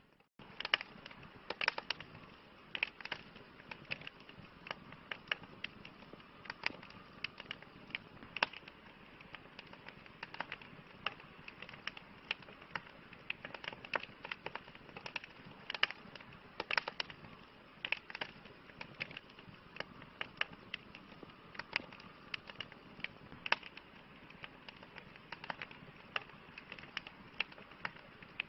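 Wood campfire crackling: irregular sharp pops and snaps, several a second, over a steady soft hiss. The sound cuts out for a split second right at the start.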